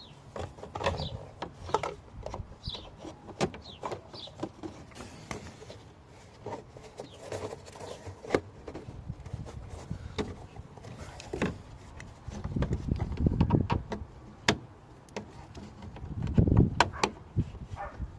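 Scattered clicks and knocks of tools and car parts being handled, with a low rumble twice in the second half.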